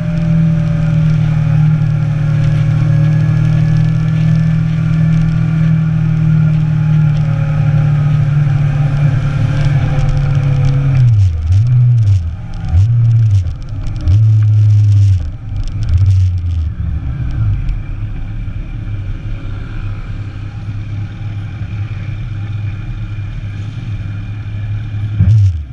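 Inline-four sport motorcycle engine running at a steady pitch, then about eleven seconds in the revs drop and climb again several times in quick succession as the bike slows, before settling to a lower, quieter steady running with one short rev near the end.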